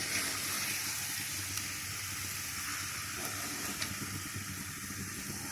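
Food sizzling in a frying pan over a fire: a steady hiss, with a few faint ticks.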